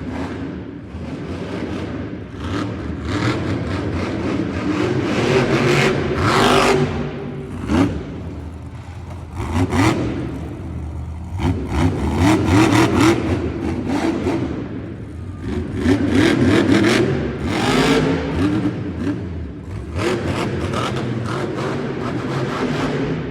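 Monster truck's supercharged V8 revving hard in repeated surges, its pitch climbing and falling, with sharp bangs and clatter throughout.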